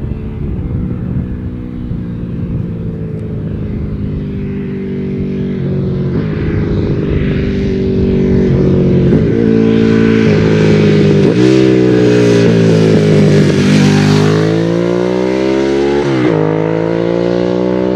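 Ducati Streetfighter's V-twin engine with twin exhausts, accelerating hard through the gears. Its pitch climbs and then drops back at each of several upshifts, and it grows louder as the bike comes closer, loudest from about ten seconds in.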